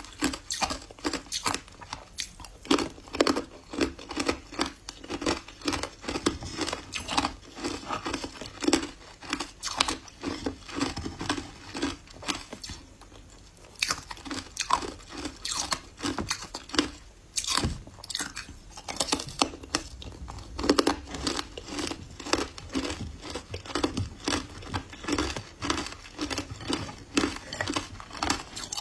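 Ice being bitten and chewed close to the microphone: a rapid run of sharp crunches, several a second, with a short quieter pause about halfway through.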